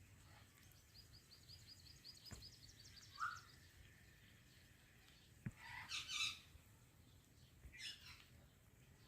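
Parrot calls, faint: a rapid high chirping trill lasting about two seconds, then a harsh squawk about six seconds in, which is the loudest sound, and a shorter one near the end.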